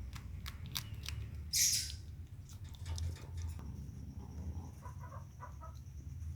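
Small bird chirping, with scattered sharp clicks and one short, harsh, noisy burst about one and a half seconds in, over a low steady rumble.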